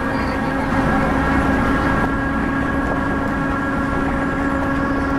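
A passenger train running along the track, heard from inside a coach at an open window: a steady rumble with a constant droning hum.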